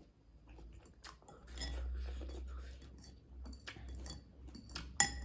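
Chewing food close to the microphone, with light mouth clicks and a sharp clink near the end.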